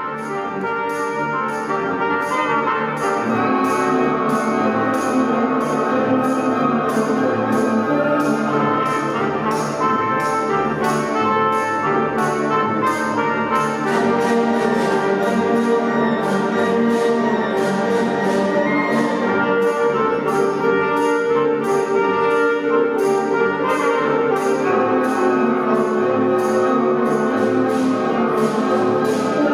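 Brass band music: trumpets and trombones playing a tune over a steady percussion beat.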